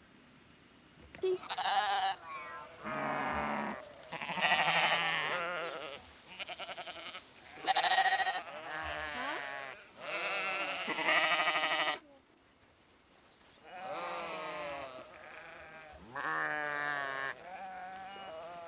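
Sheep bleating, a string of loud, quavering calls from several animals, some overlapping, starting about a second in with a brief pause past the middle.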